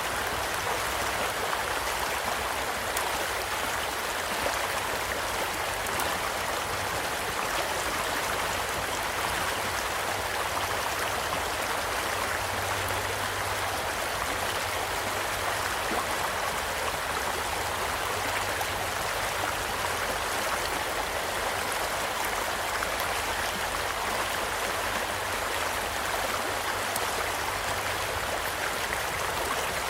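A small stream flowing steadily, with faint, scattered crackles from a campfire over the rush of the water.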